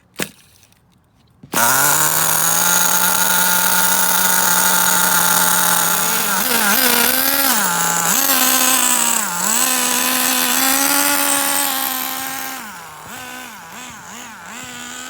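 Small two-stroke nitro glow engine (SH-18) in an HPI RS4 3 Evo RC touring car starting about a second and a half in and idling steadily, then rising and falling in pitch with short, gentle throttle blips. It gets quieter near the end as the car drives away. This is light quarter-throttle running during engine break-in.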